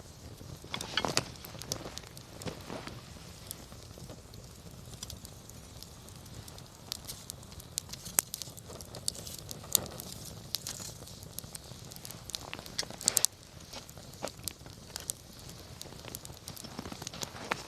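Wood campfire burning, crackling with irregular sharp pops over a soft steady hiss, with a quick cluster of louder pops about thirteen seconds in.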